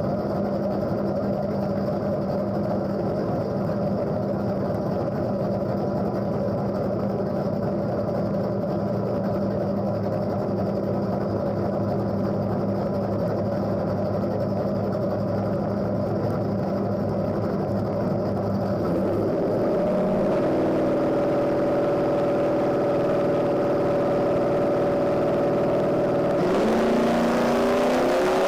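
Small-block Chevy V8 of a drag-racing Camaro, heard from inside the cabin, idling steadily. About two-thirds of the way through, the revs step up and hold at a steady higher pitch as the car is brought up to launch rpm on the starting line, and near the end the revs climb as the car launches off the line.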